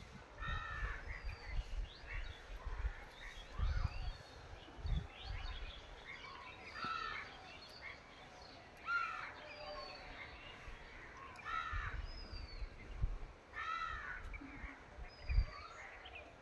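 Birds calling: a short call repeated every two or three seconds, with brief falling whistles from another bird in between, over low rumbles.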